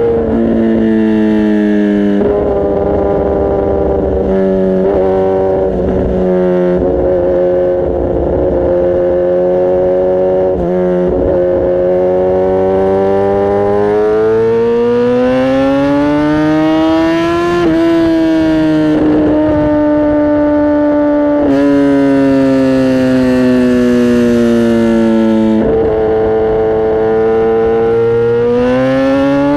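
Kawasaki Ninja ZX-10R inline-four engine and exhaust under way, its pitch rising and falling with the throttle, with several sudden drops at gear changes. Near the middle it pulls up in one long rising climb, then eases off and falls, and picks up sharply again near the end.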